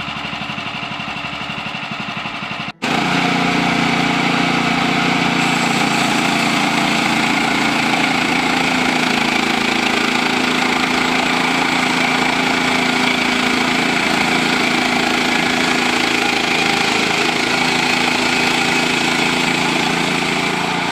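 Gas engine of a Woodland Mills HM130MAX portable bandsaw mill running steadily. There is a brief dropout about three seconds in, after which the sound is louder.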